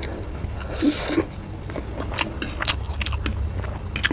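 Close-miked chewing of a mouthful of egg chow mein noodles: a run of short wet mouth clicks, over a steady low hum.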